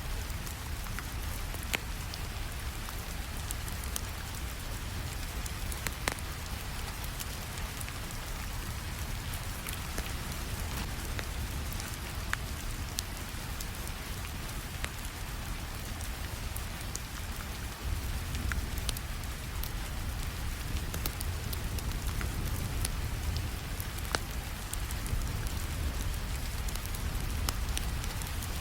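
Steady rainfall with a low rumble, mixed with scattered sharp pops of a crackling wood fire; the rain grows slightly louder a little past halfway.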